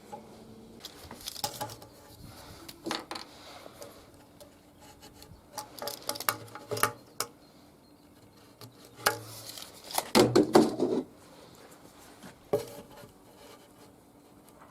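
Scraping, rubbing and light knocking on a wooden nest box as it is cleaned out, in irregular bouts. The longest and loudest scrape comes about ten seconds in.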